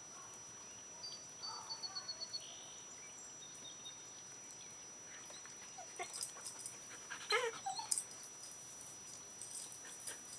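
Dog whimpering, with one short high whine about seven seconds in, among a few faint clicks.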